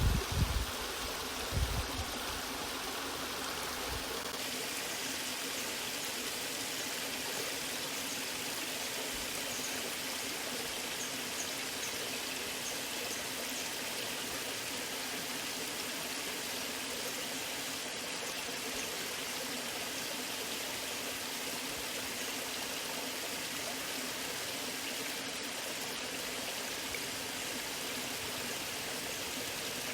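Natural waterfall: water rushing in a steady, even hiss. A few low thumps sound in the first couple of seconds.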